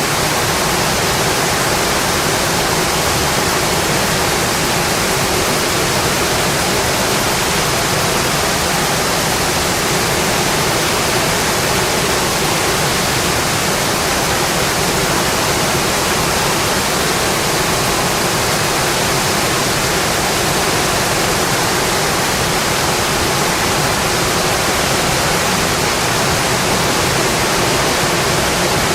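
Steady, dense rainfall: an even hiss of rain with no separate drops, thunder or changes.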